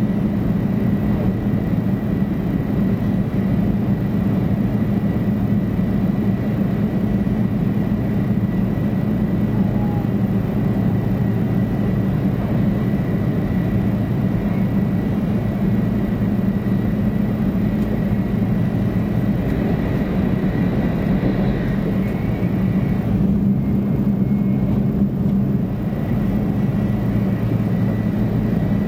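Running noise of a 500 Series Shinkansen at speed, heard from inside the passenger cabin: a steady low rumble with a thin high whine over it. About three-quarters of the way through, the upper hiss briefly thins out.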